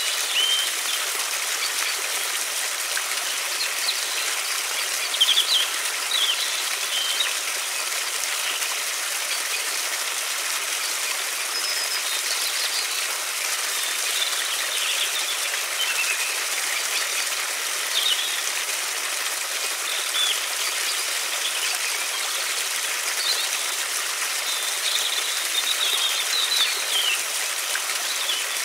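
Steady rush of flowing river water, with small songbirds chirping over it in short calls every second or two.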